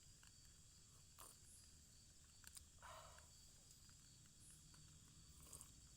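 Faint, steady high-pitched chirring of forest insects, with a few small clicks and a brief rustle about three seconds in.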